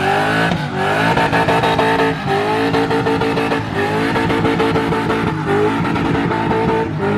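Car engine revved hard again and again, about four times: each rev climbs quickly, holds high for over a second, then drops before the next.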